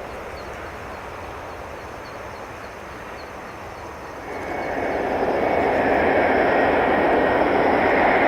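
Airbus A350 jet on final approach coming in close: after a quiet steady background, its Rolls-Royce Trent XWB engines swell suddenly about halfway through into a loud rumble with a steady high whine that holds.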